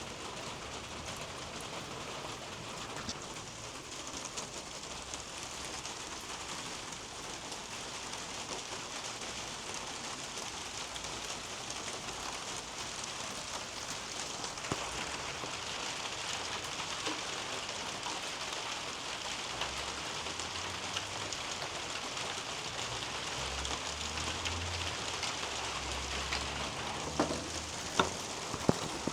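Steady rain falling on garden leaves and soil, an even patter with scattered drips. A few louder drops land close by near the end.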